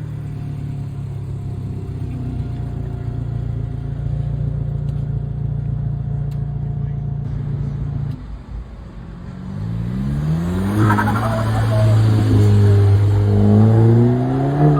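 Modified car engine running steadily, then dropping off about eight seconds in and revving up with rising pitch to run louder through the rest.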